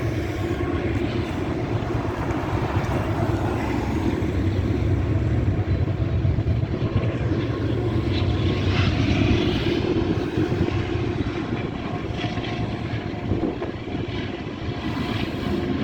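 CP freight train passing close by: the steady diesel drone of a locomotive, a distributed power unit placed within the train, over continuous wheel-on-rail noise, swelling slightly midway.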